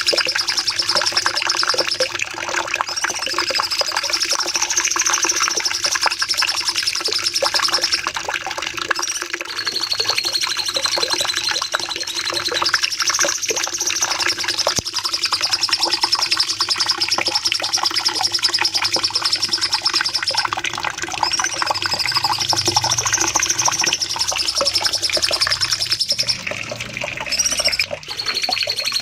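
Cucak cungkok songbird singing without a break in long, rapid, shrill trilling 'tembakan' phrases, with repeated rising and falling notes high in pitch. A faint steady hum lies under it.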